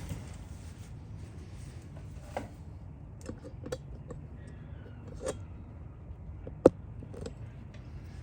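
Scattered light clicks and clinks of metal tools and engine parts being handled during a Suzuki LTZ 400 top-end teardown, with one sharper click about two-thirds of the way through, over a low background hum.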